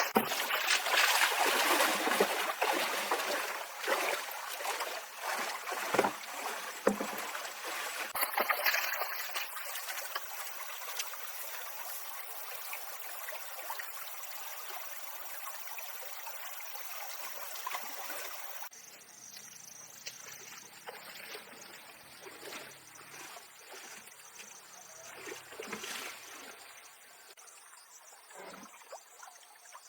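Water splashing and trickling, with scattered knocks, louder for most of the stretch and dropping suddenly to a quieter trickle about two-thirds of the way through.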